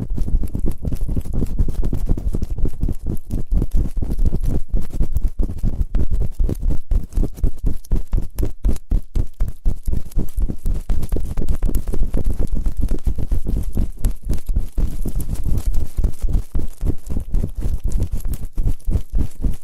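Close-miked ASMR ear-cleaning sounds: a fast, dense run of crackling taps and rubbing right on the microphone, heavy in the low end.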